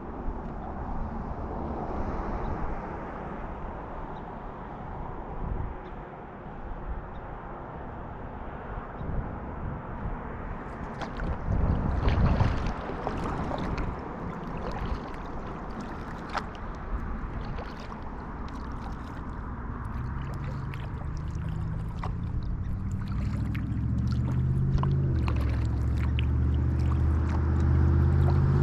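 Kayak on the water: paddle splashing and water sloshing and dripping, with a louder splash about twelve seconds in. From about two-thirds through, a low engine drone grows steadily louder.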